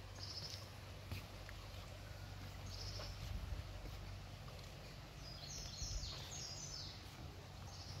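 A songbird singing in short high phrases, three times, the longest a run of quick notes a little over five seconds in, over faint steady low outdoor background noise.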